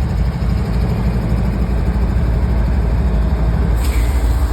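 A steady low engine rumble, with a brief hiss near the end.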